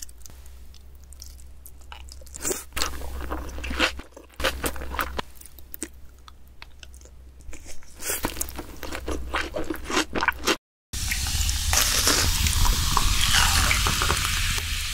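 Close-miked eating: biting into and chewing mouthfuls of salmon and rice, wet chewing broken by scattered short crunches. A little over ten seconds in the sound cuts out for a moment, and a louder, fuller stretch of intro music follows.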